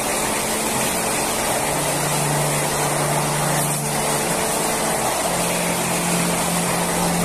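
Vande Bharat electric train running past close alongside a station platform: a steady rush of wheel and air noise with a low hum underneath that shifts in pitch about five seconds in.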